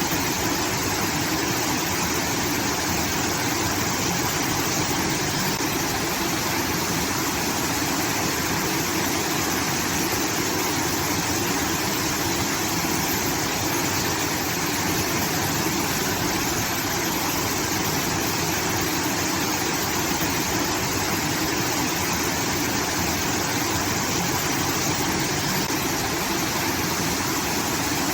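Water from a rice-field irrigation outlet pouring and cascading, a steady rushing like a small waterfall.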